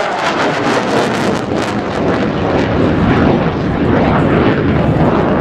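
F-16 Fighting Falcon's jet engine running at high power in a loud, crackling roar as the fighter makes a low pass and pulls up into a vertical climb.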